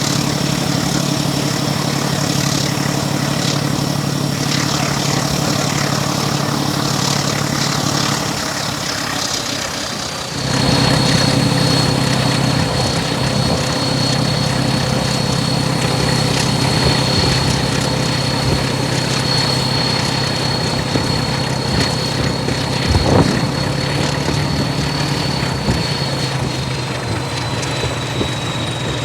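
Diesel train engine running steadily, a deep hum under a thin high whine. About ten seconds in, the sound dips and then changes abruptly to a new steady pitch, and a single knock comes later.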